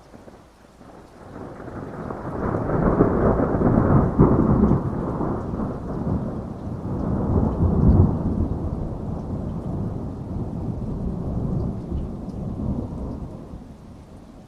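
Thunder rolling during heavy rain: a long, deep rumble that builds over the first few seconds, swells twice, about four and eight seconds in, and dies away near the end, with rain falling steadily underneath.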